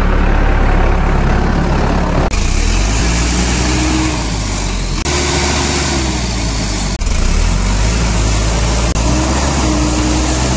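Heavy diesel engine running with a steady low drone, its sound changing abruptly a few times.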